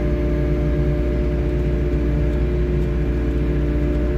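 3W wheeled excavator's diesel engine running steadily, with a steady whine on top.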